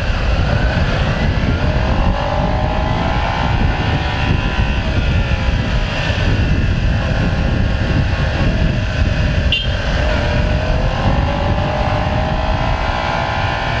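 Motorcycle engine accelerating twice, its pitch rising each time, under heavy wind rumble on the microphone.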